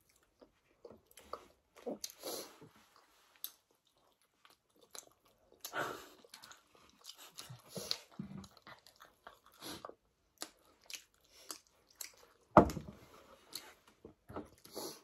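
Close-up eating sounds: people biting and chewing chapati, with scattered wet mouth clicks and smacks. One loud knock stands out about two-thirds of the way through.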